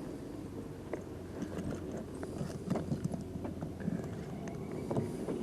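Shirt fabric rubbing and rustling over a body-worn camera's microphone, with scattered small clicks and scrapes, over a low steady vehicle hum.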